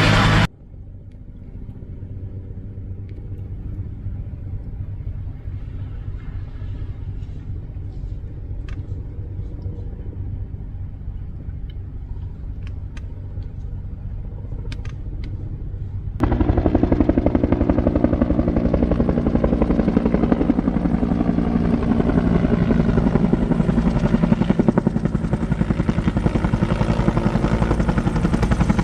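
Firefighting helicopter's rotor and engine running steadily nearby with a fast, even rotor beat. The level drops abruptly about half a second in, a few faint ticks sound in the quieter stretch, and the helicopter comes back much louder all at once about 16 seconds in.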